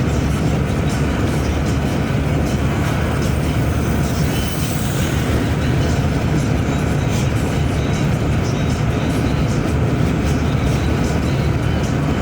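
Steady rumble of a road vehicle on the move, engine and tyre noise holding an even level throughout.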